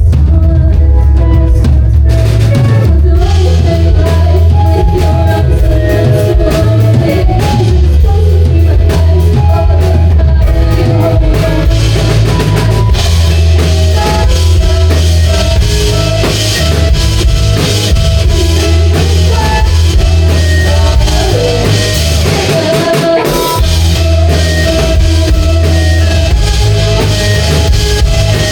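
Rock band playing live, with drum kit, electric guitar and heavy bass; the cymbals grow louder about halfway through.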